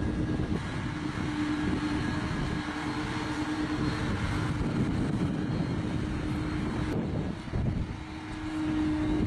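John Deere tractor engine running steadily under load as it pulls a loaded dump trailer, a constant droning hum that dips briefly near the end and then picks back up.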